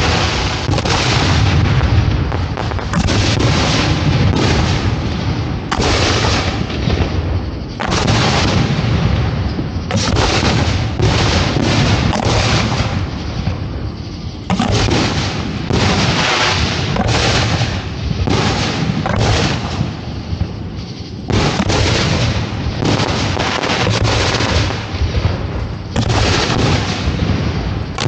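Professional fireworks display firing close by: shells launching and bursting one after another in a dense barrage, overlapping booms and cracks with only brief lulls.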